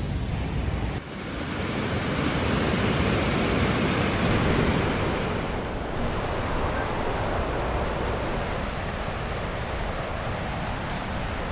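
Steady rushing roar of Niagara Falls' water with wind buffeting the microphone. It dips briefly about a second in, then swells and changes character partway through.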